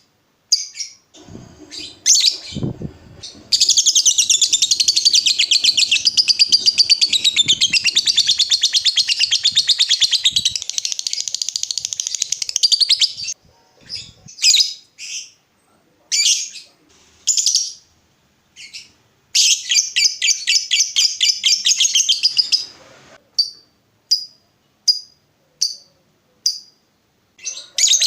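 Lovebird singing 'ngekek': a long, fast chattering trill of about ten seconds, then scattered chirps, a second shorter trill, and short chirps about once a second near the end.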